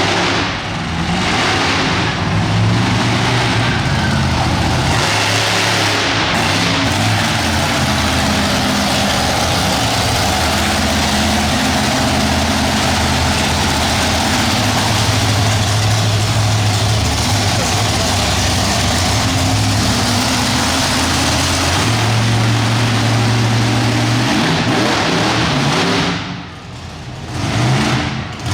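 Monster truck engine running loud, its revs rising and falling in steps, easing off briefly near the end.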